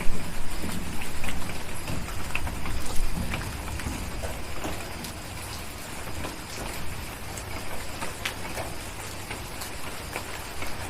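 Steady rain with scattered sharp crackles from a wood fire. A low thunder rumble in the first few seconds dies away.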